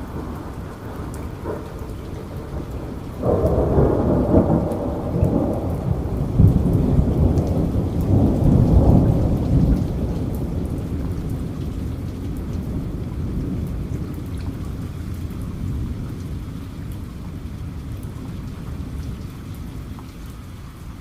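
Heavy rain falling steadily, with a thunderclap that breaks in suddenly about three seconds in, rumbles loudly for several seconds, and then slowly dies away under the rain.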